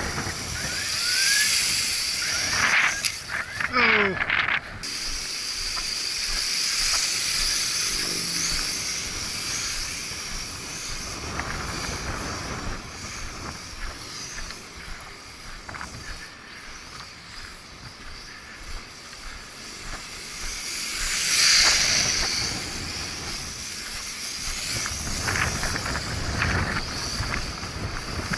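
Small toy quadcopter's propellers whining high, swelling and fading as it flies about in gusty wind, loudest about three-quarters of the way through. Wind rumbles on the microphone.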